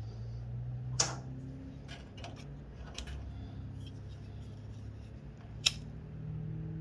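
Two sharp clicks of a hand tool during wiring work, about a second in and again near the end, with a few fainter ticks between them over a low steady hum.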